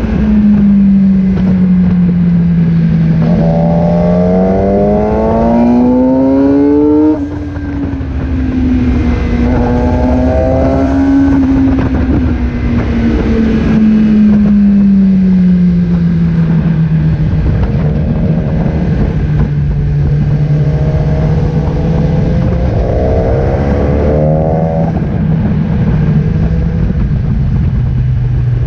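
Motorcycle engine running at road speed with wind rushing over the microphone. The engine pitch climbs for a few seconds, drops with a brief dip in level about seven seconds in, then eases lower and wavers as the bike cruises.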